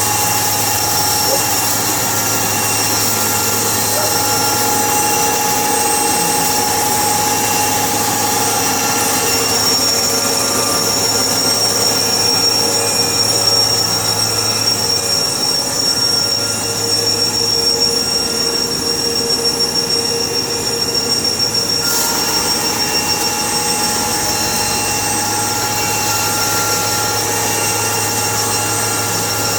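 Sawmill machinery running steadily with a high-pitched whining squeal over a constant mechanical noise. There is a sharp click about 22 seconds in, after which the tone of the machine shifts.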